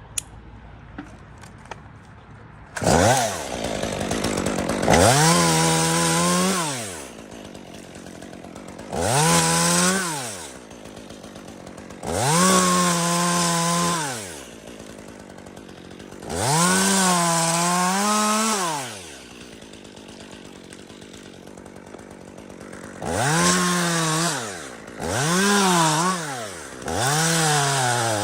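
Chainsaw engine starting about three seconds in, then revving repeatedly: the pitch rises to full throttle, holds for a second or two, and drops back to idle, about seven times.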